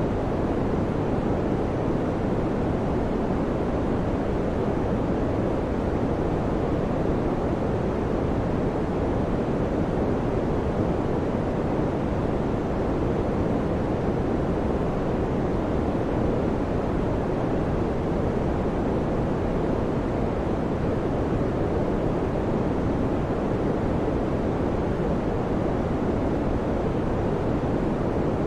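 Electric fan running, a steady low whooshing rush of air with no change.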